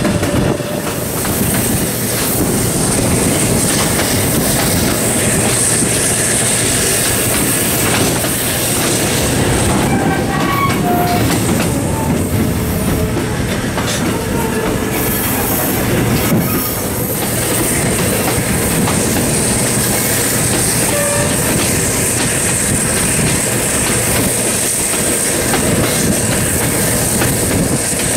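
Passenger train carriages running along the track as they round a curve, heard from an open carriage window: a loud, steady rumble and rattle of wheels on rail. A few short wheel squeals come through about ten to twelve seconds in and again around twenty seconds.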